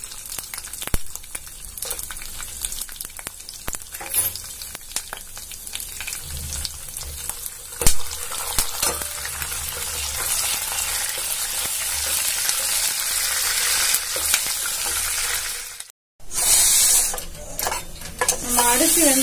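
Nuts, raisins and whole spices frying in ghee in a stainless steel bowl: a steady sizzle that grows louder, with clinks and scrapes of a steel spoon stirring against the bowl. A brief silence near the end is followed by a loud hiss.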